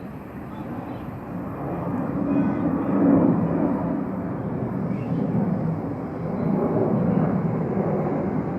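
Boeing 737 jet engines at takeoff power: a steady, loud rumble that swells about two seconds in and holds.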